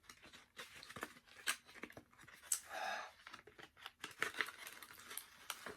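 Paper food packaging crinkling and tearing as it is handled and opened, with scattered small clicks and crackles and a brief louder rustle about three seconds in.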